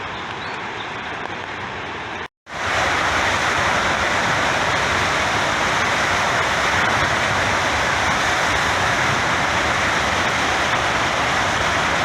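Water rushing out of a reservoir's spillway during a flood discharge, a steady noise. It drops out for a moment a little over two seconds in and comes back louder.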